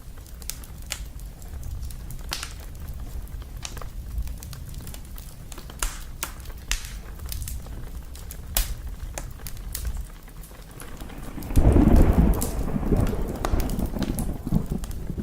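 Wood fire crackling with scattered sharp pops over steady rain and a low rumble. About eleven seconds in, a loud thunderclap breaks and rolls on as rumbling thunder.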